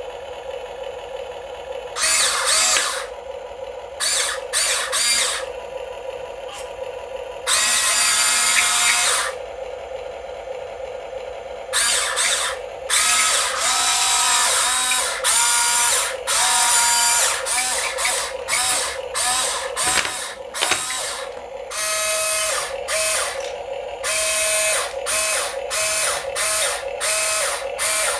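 Small geared electric motors of RC toy construction vehicles whirring in many short bursts, starting and stopping as the controls are worked.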